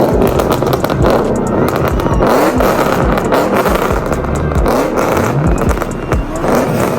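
Car engine noise mixed with background music.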